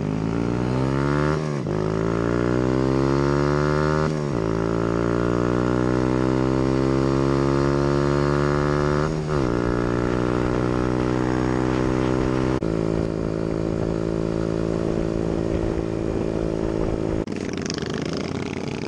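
Small single-cylinder 125cc minibike engine accelerating through the gears: the engine note climbs three times, with a short dip at each upshift, then holds a steady cruising pitch. Near the end the steady note breaks off.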